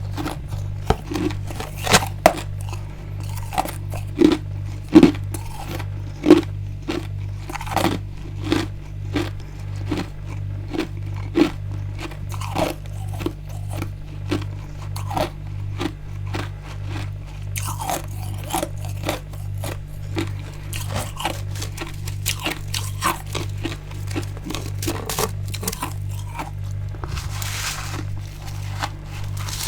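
Close-up crunching and chewing of frozen freezer frost and ice: a string of sharp crisp bites, the loudest in the first half, then softer, quicker chewing crunches.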